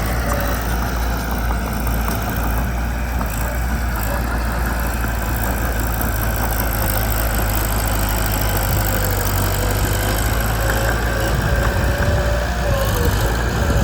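Mitsubishi BD2 bulldozer's diesel engine running steadily, with a faint wavering whine above the low rumble.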